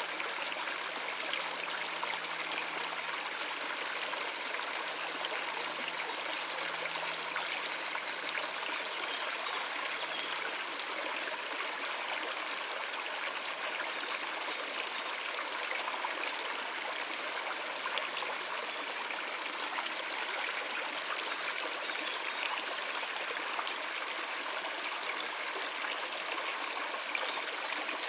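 Stream water running over rocks: a steady rush with a trickling, gurgling edge.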